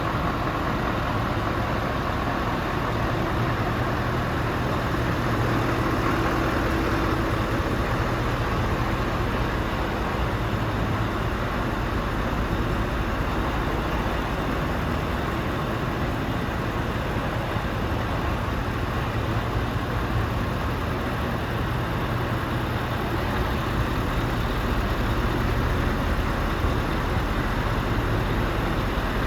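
Scania R520 V8 diesel tractor unit idling steadily, a low, even engine hum.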